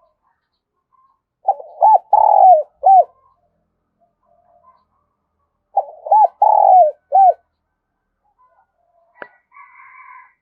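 A spotted dove cooing its territorial lure call: two phrases about four seconds apart, each a short run of about four coo notes. Near the end there is a sharp click, then a faint, higher call.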